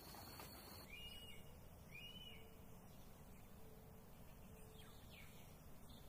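Faint bird calls: two short chirps about a second apart, then a fainter one near the end, over a quiet background hiss.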